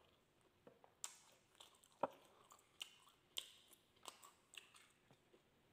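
Faint close-up eating sounds: a person chewing grilled skewered meat, heard as scattered soft wet mouth clicks and smacks, about eight of them, spread unevenly across the stretch.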